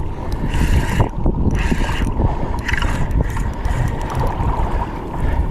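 Wind buffeting the microphone on a kayak out at sea, with water washing against the hull, and a faint steady high tone underneath.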